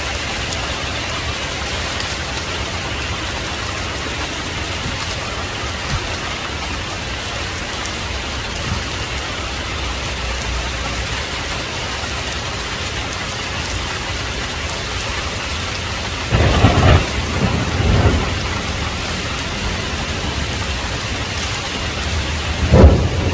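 Heavy rain falling steadily. Thunder cracks and rumbles about two-thirds of the way through, and a louder clap comes near the end.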